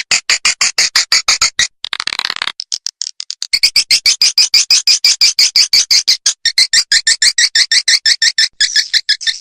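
Recorded swiftlet calls played as a lure track to draw swiftlets into a nest house: fast trains of high, clicking chirps, about eight or nine a second. They thin out briefly about two and a half seconds in, then come back dense and loud.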